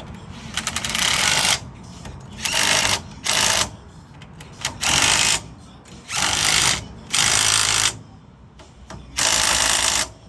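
A power tool run in seven short bursts, each about half a second to a second long, with a stuttering start on the first.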